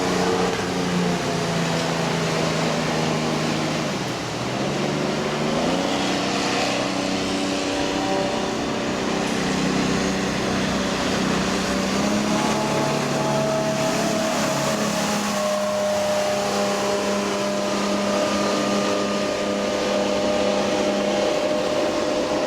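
MerCruiser 4.3 litre V6 engine of a jet-drive boat running under way. It eases off briefly about four seconds in, then picks up revs and holds a steady pitch.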